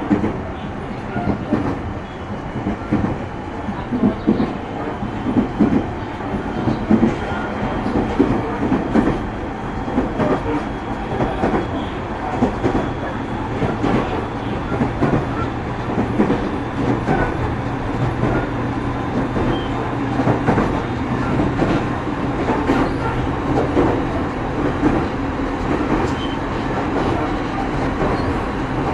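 Running noise inside a JR 209 series electric multiple unit motor car. The wheels clatter over rail joints and there is a steady low hum.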